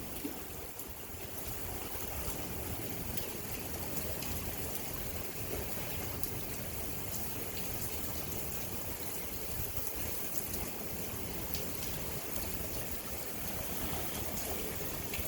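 Steady rain falling on lagoon water: an even, continuous hiss with scattered faint drop ticks.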